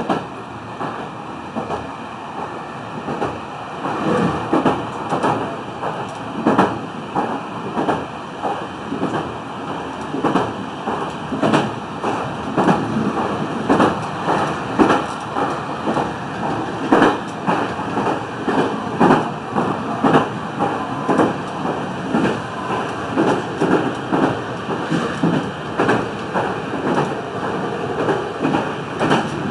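Meitetsu 3100 series electric train running, heard from on board: a steady rumble of wheels on rail with repeated clacks as the wheels cross rail joints, louder after the first few seconds.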